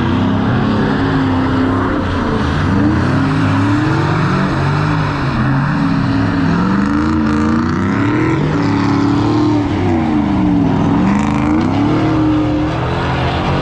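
Car engine revving hard again and again, its pitch swinging up and down over a steady rush of noise.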